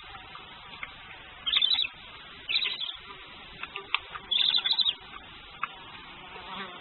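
Barn owls calling in the nest box: three short calls, each under a second, about one and a half, two and a half and four and a half seconds in, with a few faint clicks between them.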